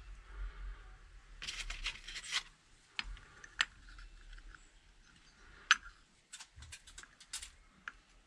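Small metal parts and tools being handled on a workbench: a few sharp clicks and taps with short bouts of scraping and rustling.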